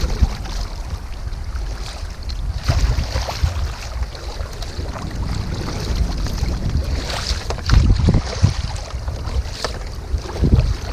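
Wind buffeting the microphone over sea water sloshing around a kayak, with a few short splashes, the loudest about eight seconds in and near the end.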